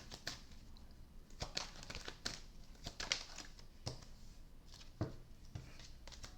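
Tarot cards being handled and drawn from the deck: scattered soft rustles and taps of card stock, about ten over a few seconds.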